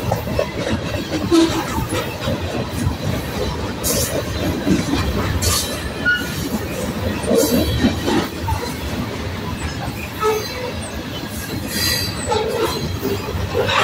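Freight train of covered hopper cars rolling past at close range: a steady rumble of steel wheels on rail, broken by irregular clanks and knocks from the passing cars and a few short wheel squeaks.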